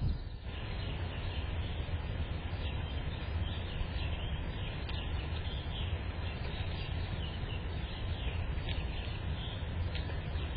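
Small birds chirping repeatedly in quick short notes over a steady low rumble.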